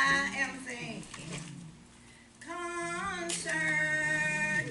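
Voices singing a hymn, a woman's voice leading over a lower voice, in long held notes with a short break for breath about a second and a half in.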